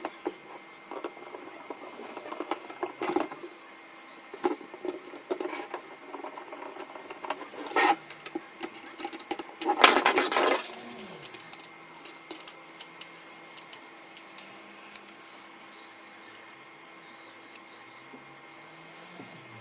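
Parts of a laser printer's fuser assembly being handled and worked on by hand: irregular clicks, knocks and short scrapes of plastic and metal, with a louder burst about ten seconds in, then only occasional clicks over a faint steady hum.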